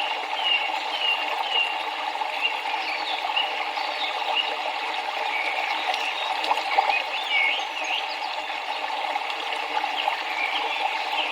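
Steady rushing of flowing river water, with small birds chirping short, repeated notes over it.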